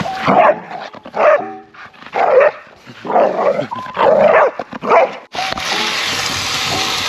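A dog barking and whining in a run of short calls. A little over five seconds in it cuts to the steady sizzle of food frying in a camp oven.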